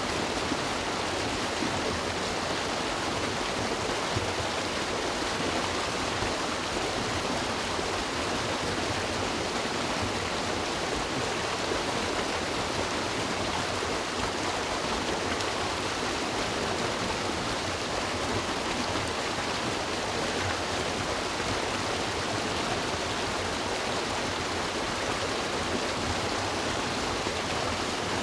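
River water rushing and splashing in a steady, even flow, with no pauses or single events.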